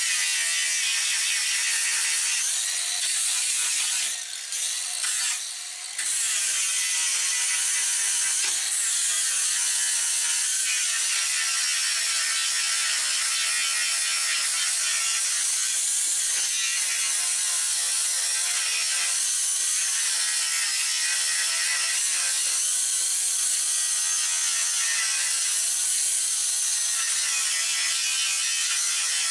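Angle grinder with a flap disc scuffing over a welded steel repair, running steadily with a harsh, hissy grinding; it eases off briefly about four seconds in, then runs on.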